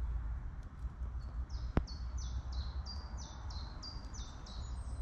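A small songbird singing a run of about a dozen quick, high notes, each sliding down, about three a second, starting a little over a second in. Under it is a steady low rumble, and a single sharp click comes just before the two-second mark.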